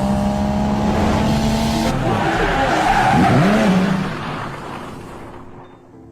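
Car engine with tyres squealing, loud, fading away over the last two seconds.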